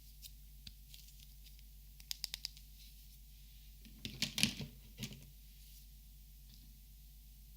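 Copic markers being handled at close range: a quick run of light clicks about two seconds in, then a louder cluster of clicks and knocks about four seconds in.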